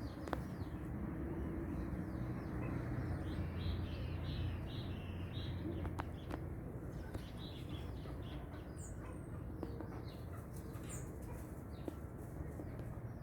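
Several birds chirping and calling in short notes, over a steady low rumble.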